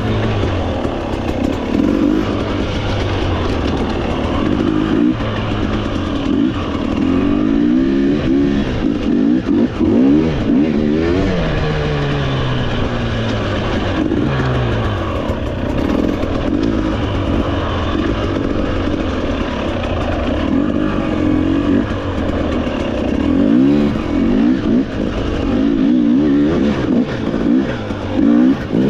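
Trail motorcycle engine being ridden, its pitch climbing and dropping again and again as the throttle is worked and gears change.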